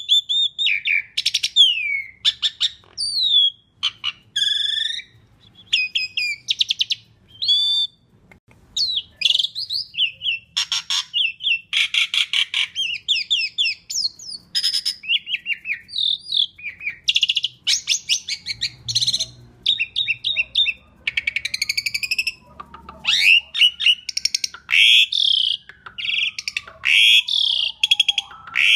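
Asian pied starling (jalak suren) singing hard, one phrase after another with short breaks. Its song is a varied mix of slurred whistles, pitch glides and rapid clicking, rattling trills.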